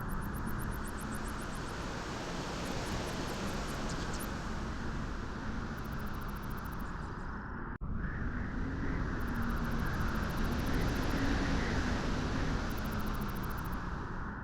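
Beach wind blowing steadily, a continuous rushing noise that slowly swells and eases. It cuts out for an instant about eight seconds in.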